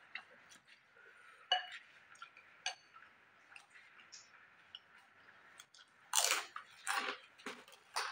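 A person chewing noodles and biting into a crispy fried cracker, with small mouth clicks and then a few loud crunches about six to eight seconds in.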